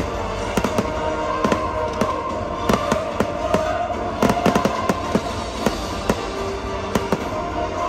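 Fireworks exploding in irregular bangs and crackles, with a quick cluster of bangs a little past the middle, over music with long held notes.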